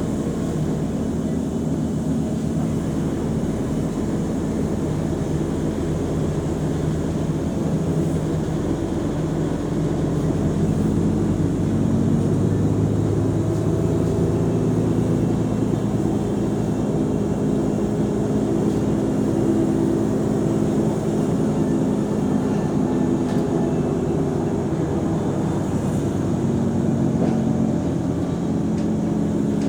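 Engine of a Mercedes-Benz O345 Conecto G articulated bus running with the bus under way. About ten seconds in, the engine grows louder and higher as it pulls harder, then its pitch shifts several times through the rest of the run.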